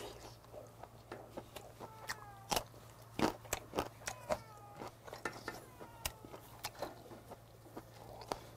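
Close-up chewing of charcoal-grilled beef offal: wet mouth smacks and short crunchy clicks, irregular throughout.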